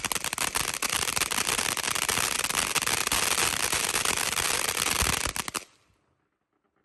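Majestic Momma 500-gram crackle fountain firing: a dense, unbroken crackle of sharp pops, which fades away and stops about five and a half seconds in.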